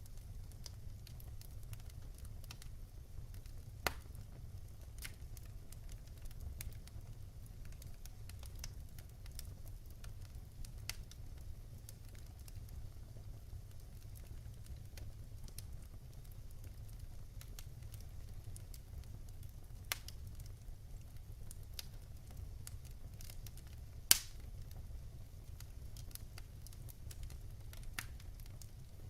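Wood fire in a fireplace crackling: scattered faint clicks over a low steady rumble, with a few sharper pops, the loudest shortly before the end.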